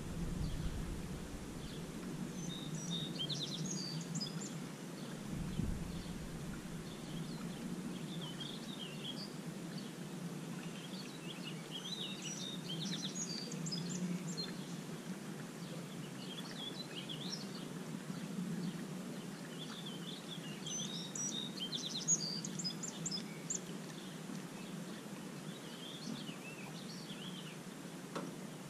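Songbirds singing in short clusters of chirps and warbled phrases every few seconds, over a steady low background hum.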